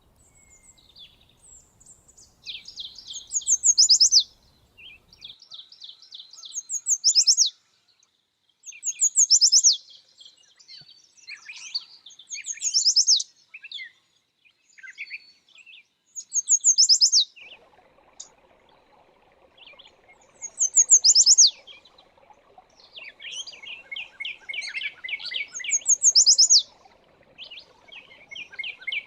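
Songbird singing, repeating the same high phrase every few seconds: a run of quick notes that ends in a loud flourish of rapid falling notes. A faint steady background hiss comes in about two-thirds of the way through.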